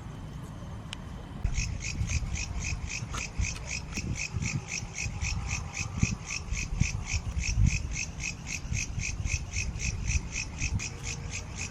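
A rapid, even train of high-pitched animal chirps, several a second, starts about a second and a half in and keeps going over a low rumble.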